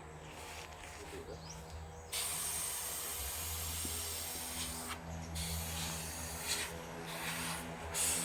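Airbrush spraying paint in a hissing jet that starts abruptly about two seconds in, then comes in shorter on-off bursts toward the end, over a low steady hum.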